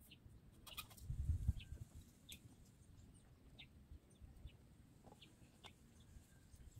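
Faint, short bird calls scattered through, with a brief low rumble about a second in.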